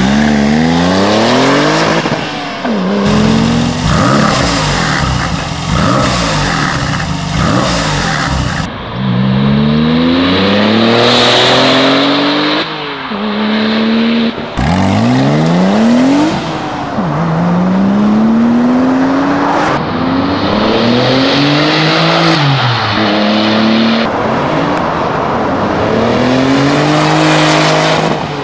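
Porsche 996 Turbo's twin-turbo flat-six through a Tubi sport exhaust, revved hard over and over: the note climbs, then falls or breaks off, about eight times.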